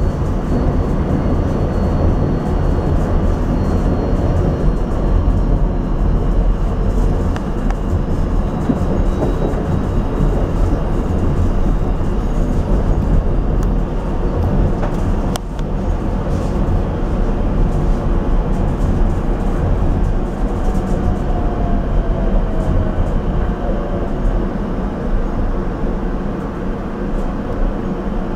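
Rotem Silverliner V electric multiple-unit railcar running on the rails, heard from inside the car as a steady low rumble of wheels on track, slowing for a station stop. A single sharp click comes about halfway through, and a faint falling whine about two-thirds of the way in.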